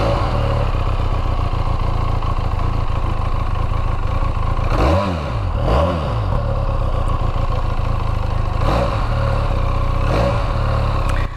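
Benelli Leoncino 500's parallel-twin engine idling cold through its stock, catalysed exhaust while being warmed up, with a few short throttle blips that rise and fall in pitch around the middle and again near the end.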